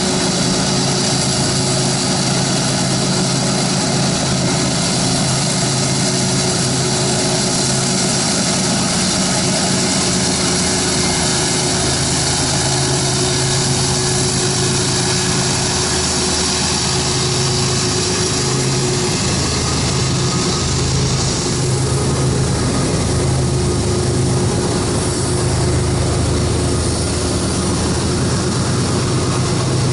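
Diesel-electric freight locomotives running, a steady heavy engine drone with a held tone over it. The low engine note grows stronger about two-thirds of the way through.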